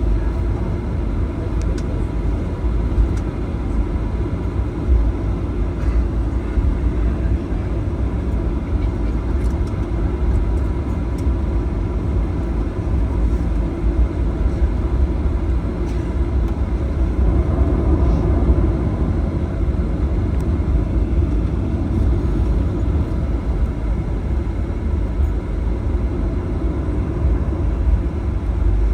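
Boeing 737-900 taxiing after landing, heard from inside the cabin: a steady low rumble of the CFM56 engines at idle and the airframe rolling, with a faint steady whine.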